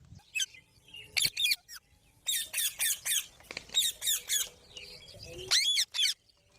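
Parrot giving rapid clusters of short, high squawks and chirps with brief pauses between them, and a longer swooping call near the end.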